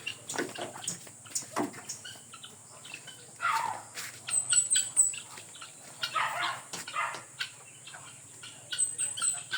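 Chickens: scattered clucks and scuffling, with two short runs of quick, high chirps.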